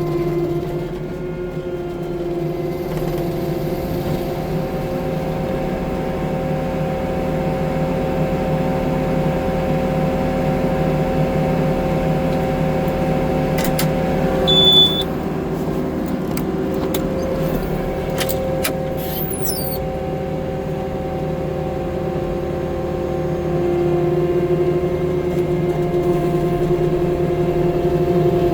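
An engine running steadily at a constant speed, with a brief high beep and a few clicks about halfway through.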